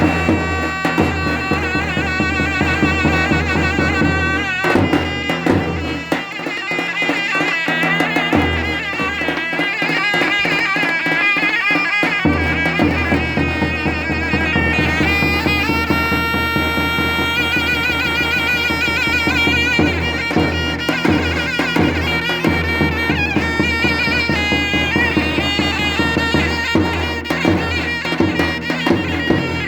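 Davul and zurna playing Turkish folk music: the zurna's shrill reed melody wavers and ornaments over a steady davul beat. The drum's low booming drops back for a couple of seconds about six seconds in.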